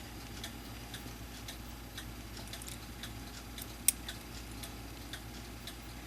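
A clock ticking steadily, about two ticks a second, with one sharper metallic click about four seconds in.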